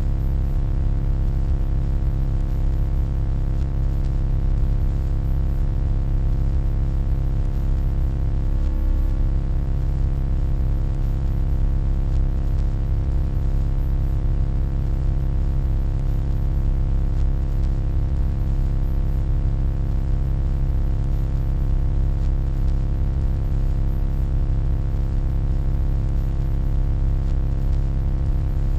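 Steady low electronic hum, a deep drone with many overtones above it, holding an even level throughout.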